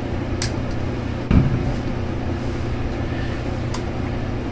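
Steady low mechanical hum, with a dull thump a little over a second in and a couple of light clicks.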